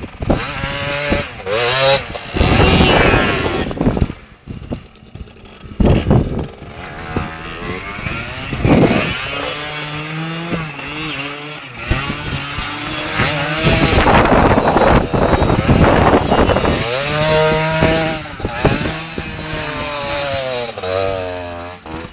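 Motorcycle engine revving up and down over and over while the bike spins doughnuts, with a quieter stretch about four to six seconds in.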